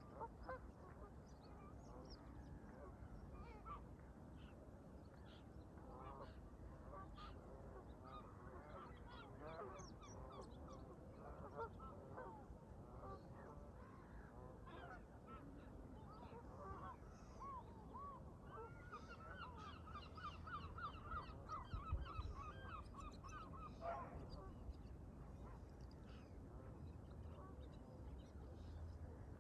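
Faint honking of a flock of Canada geese, with scattered calls throughout and a quick run of repeated honks a little past the middle. A low background hush of wind and water lies underneath.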